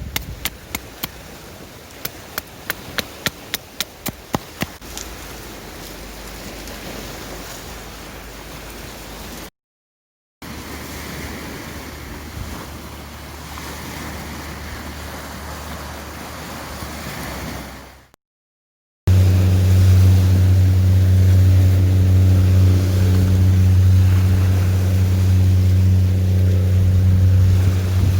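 A quick run of about fifteen sharp metallic clicks from a mini fire steel being struck against flint, over the rush of surf. After a cut comes steady surf noise, then a much louder steady low drone with a constant pitch, like an engine.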